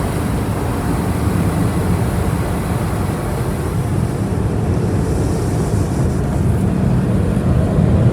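Automatic tunnel car wash equipment, heard from inside the car: a steady, loud rushing of rinse spray and blowers, growing a little louder near the end.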